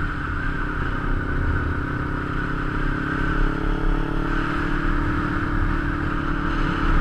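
Kawasaki Ninja 250's parallel-twin engine running at a steady road speed, its pitch drifting slightly, with wind rushing over the bike-mounted microphone.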